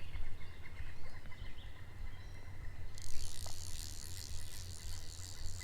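Outdoor ambience with a low rumble of wind and handling on the microphone. About halfway through, a steady high hiss comes in suddenly and holds.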